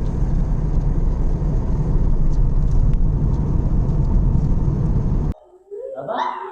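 Loud steady rumbling noise that cuts off abruptly about five seconds in. Short rising-and-falling calls follow near the end.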